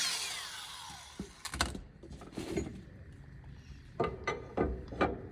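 A grinder spinning down after being switched off, its whine falling in pitch and fading over about a second. Then a handful of sharp knocks and clicks follow at irregular intervals, a cluster of them near the end, as the parts are handled.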